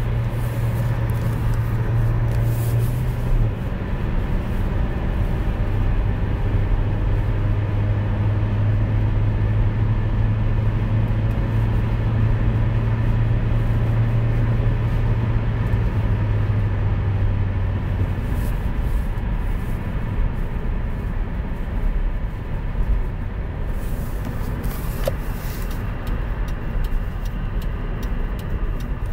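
Hyundai i20's 1.4-litre four-cylinder petrol engine under hard acceleration, with road and wind noise. Its steady drone breaks off briefly about three seconds in and fades out after about eighteen seconds, leaving mainly road and wind noise.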